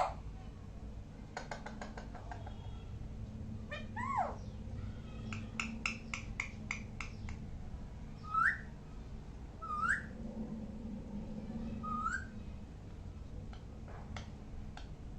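Pet parrot calling: a swooping whistle that rises and falls about four seconds in, a quick run of clicking notes, then three short upward-sweeping whistles about a second and a half apart, with a few clicks near the end.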